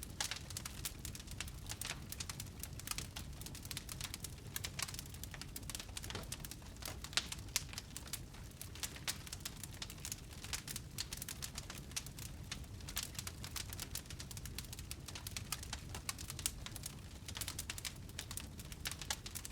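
Wood fire in a fireplace crackling steadily: a dense run of sharp pops and snaps over a low, even rumble of the flames.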